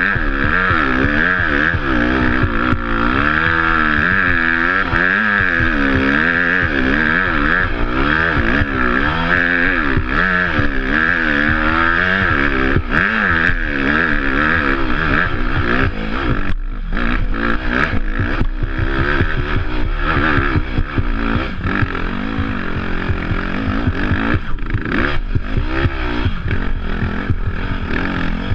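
Dirt bike engine running under a rider, its revs rising and falling over and over with the throttle. Knocks and rattles come in during the second half, as the bike goes over rougher ground.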